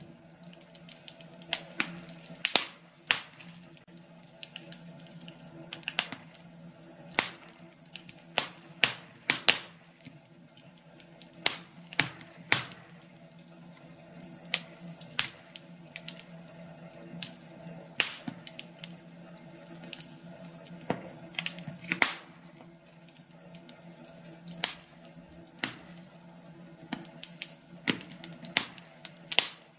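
Wood fire crackling: irregular sharp pops and snaps of burning logs, some loud, over a faint steady low hum.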